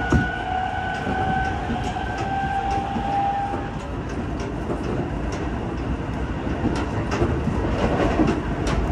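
Shin-Keisei Line electric commuter train running, heard from inside the carriage: a steady rumble of wheels on rail with scattered clicks and a jolt just after the start. A motor whine rises slightly in pitch and fades out about halfway through.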